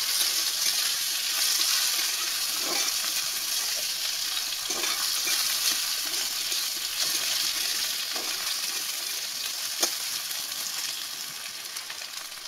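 Potato wedges and onions sizzling as they fry in oil in a cast-iron kadai, with a metal spatula stirring and scraping the pan a few times. The sizzle dies down gradually near the end.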